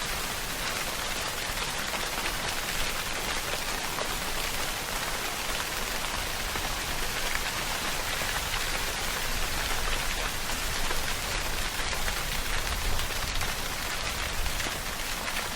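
Steady rainfall pattering on a surface, an even dense hiss made of many small drop impacts, with no breaks and no thunder.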